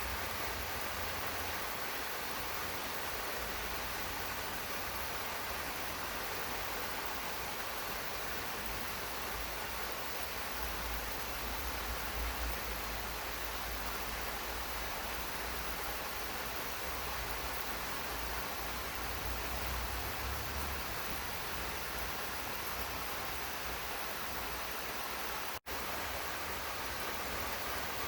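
Steady rain falling in a garden, an even hiss with a low rumble underneath. The sound cuts out for an instant near the end.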